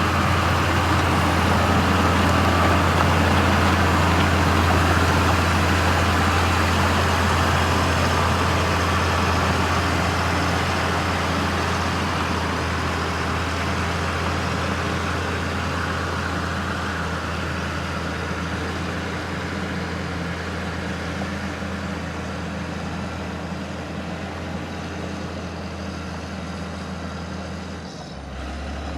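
Heavy truck engine running steadily under load on a slippery climb, its low hum slowly fading, then dipping and changing abruptly about a second before the end.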